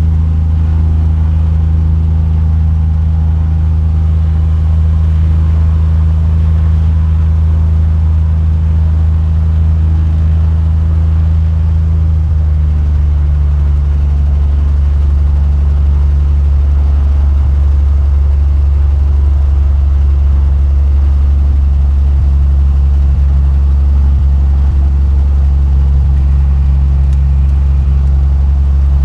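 Cessna 182 light aircraft's piston engine and propeller droning steadily, with a small step in pitch about twelve seconds in.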